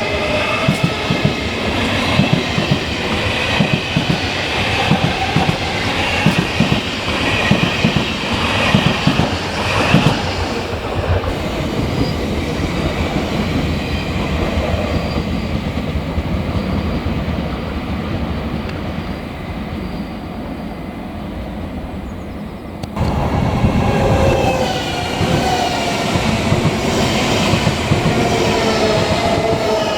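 A train running through the station, its wheels clattering over the rails with a rumble and a whine of several tones that glides in pitch. About two-thirds through, the sound jumps suddenly louder, and the whine then falls steadily in pitch.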